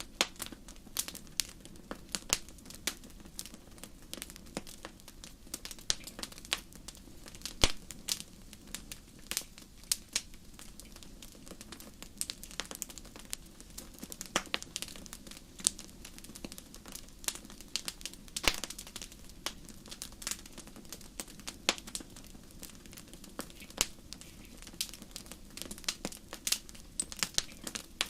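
Wood fire burning in a fireplace, crackling with sharp, irregular pops and snaps over a soft steady low rumble.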